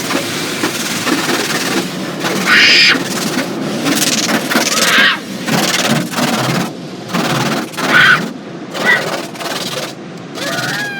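Automatic car wash equipment working over the car, heard from inside the cabin: a steady, loud wash of noise with harsh surges of spray and beating every second or two.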